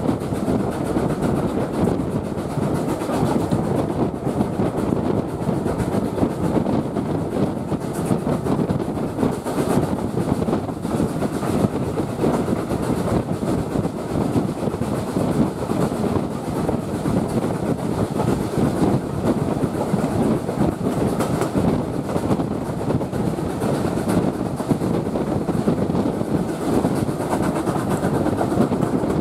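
Heritage railway train running along the track: a steady rumble of carriage wheels on the rails with continual small clicks and clatter, holding an even level throughout.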